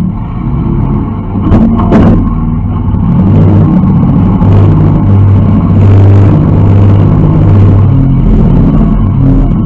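Demolition derby car's engine heard loud from inside the stripped cab, running hard with its pitch shifting as the throttle changes. Two sharp knocks come close together about a second and a half in.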